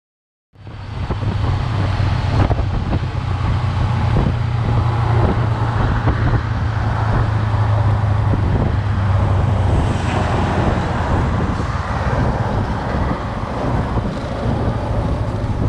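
Steady road noise inside a moving car: engine and tyre drone with a strong low hum, setting in about half a second in.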